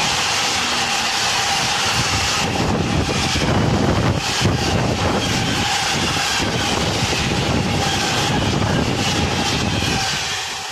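Freight train of loaded flat wagons rolling past close by: a steady rumble of steel wheels on rail, with a thin steady whine and irregular knocks from the wheels. It fades near the end as the last wagons go by.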